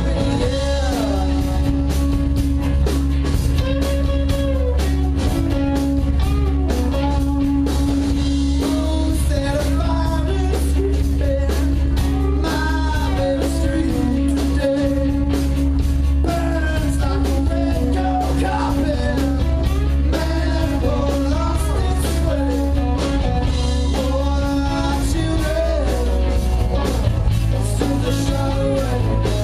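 Live rock band playing with a lead singer: vocals over electric guitar, a steady low bass line and drums with a dense, regular beat.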